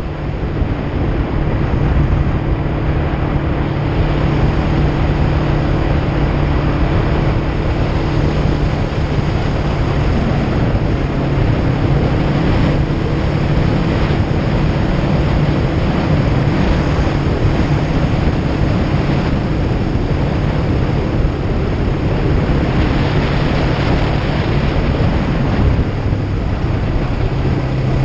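Kawasaki Ninja 500's parallel-twin engine running steadily while riding, its note shifting a little in pitch, under heavy wind noise on the microphone.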